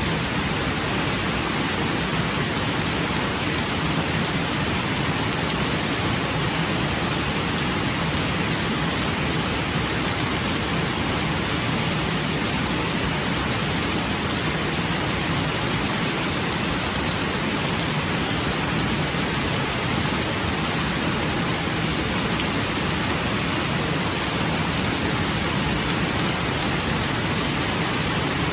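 Steady rain, an even unbroken hiss with no breaks or separate events.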